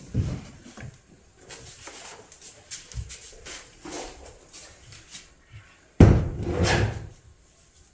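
Handling noise indoors: light knocks and rustles, then a loud bump about six seconds in, like something wooden being set down or knocked.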